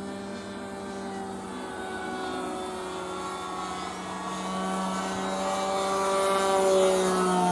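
Radio-controlled model airplane in flight, its motor and propeller giving a steady buzzing drone. The drone wavers slightly in pitch and grows louder toward the end as the plane comes closer.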